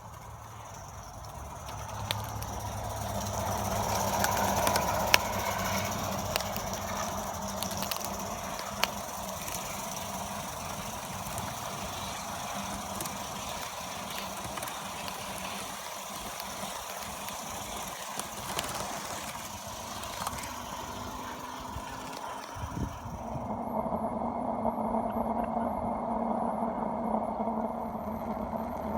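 BR Standard Class 4MT 2-6-4 tank steam locomotive running, the sound swelling over the first few seconds, with a few sharp clicks. About three quarters of the way through the sound changes abruptly to a steadier one with a faint high whine.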